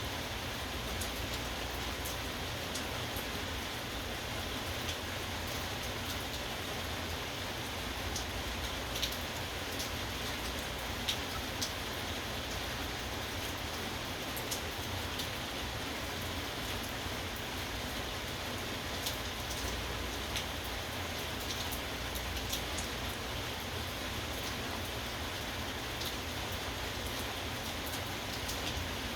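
Steady rain falling, with scattered individual drops ticking on a nearby surface.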